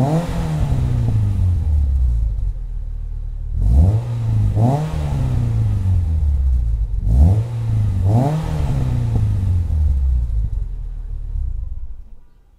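Renault Clio RS engine breathing through a Dory aftermarket exhaust, revved in sharp blips about every three to four seconds, the later ones in quick pairs, dropping back toward idle between them. The sound fades away near the end.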